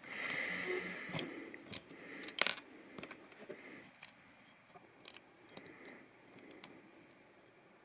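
Plastic LEGO pieces clicking and scraping as they are handled, a scattered series of sharp clicks with the loudest about two and a half seconds in.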